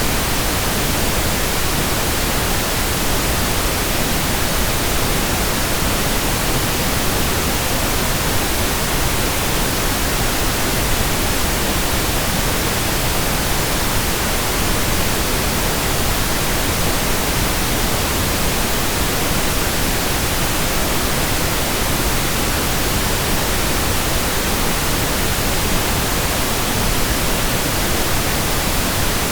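Steady synthetic pink noise: an even, unchanging hiss spread across all pitches, with more weight in the low end than white noise.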